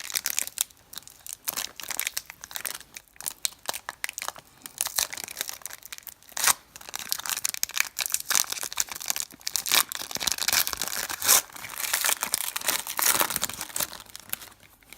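Foil wrapper of a 2016 Panini Select trading-card pack being torn open and crinkled, with irregular crackling and rustling and a couple of sharp snaps of the foil.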